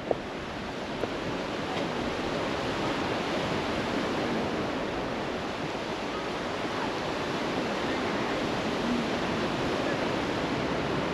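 Sea surf washing on the shore: a steady rushing hiss of waves, with one short sharp knock right at the start.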